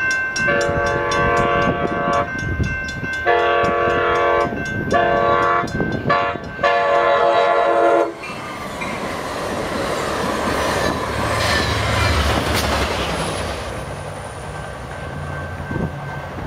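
Amtrak Capitol Corridor passenger train sounding its horn for a grade crossing: long, long, short, long blasts of a multi-note chord, with a crossing bell ringing behind. Then the train rolls past, its wheels clattering over the rail joints, growing louder and fading away, with a low locomotive drone under it.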